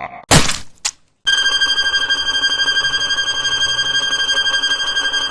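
A short whoosh, then a rapidly pulsing electronic alarm ringing on one steady pitch.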